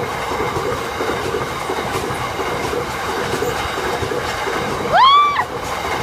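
A train passing close by, its wheels clattering on the rails in a steady loud rush. About five seconds in, a short high whoop rises and falls over it.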